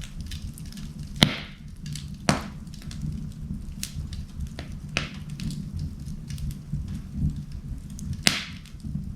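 Wood fire burning in an indoor fireplace: a steady low rumble of the flames with irregular crackling, four sharp pops (the loudest about a second in) among many small ticks.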